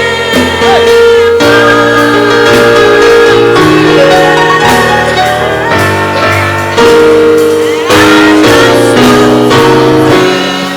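Live gospel worship music from a church band: instruments playing held chords that change every second or two, with a melody line over them.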